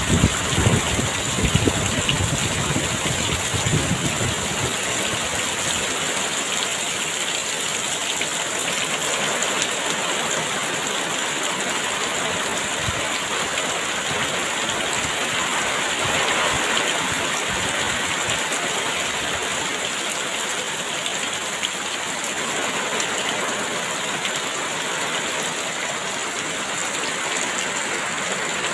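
Heavy rain pouring down in a steady, dense hiss. Gusts of wind rumble low for the first few seconds, then die away.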